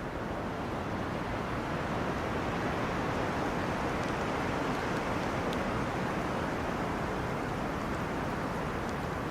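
Wind rushing steadily through the crowns of trees, a dense, even rustle of leaves and branches that swells slightly after the first couple of seconds.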